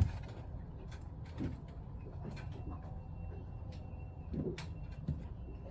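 Scattered light clicks and taps of plastic pump parts being handled and fitted together while a Jabsco pump is put back together after a diaphragm repair, over a faint steady low hum.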